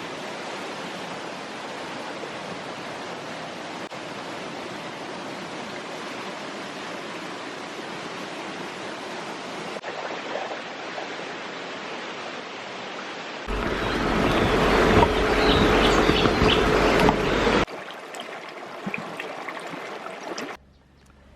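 Steady rushing water, as of a stream, heard across several edited shots. For about four seconds in the middle it is louder, with a deep rumble under it, and it drops suddenly quieter near the end.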